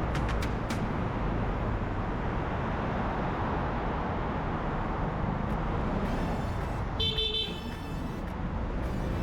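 Steady city road traffic noise, with a short car horn toot about seven seconds in.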